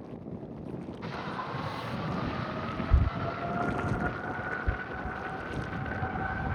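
Jet airliner engines whining, the pitch rising slowly over several seconds, under a rough rumble. Wind buffets the microphone with low thumps.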